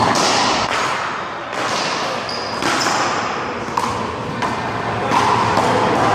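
One-wall handball rally: a small rubber handball slapped by hand and smacking off the wall and pavement, a run of sharp hits about a second apart over a steady background hiss.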